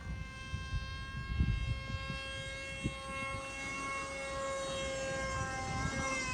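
Electric-powered RC F-22 model plane's brushless motor and propeller whining steadily in flight, dipping slightly in pitch near the end, with low gusty rumbles of wind on the microphone.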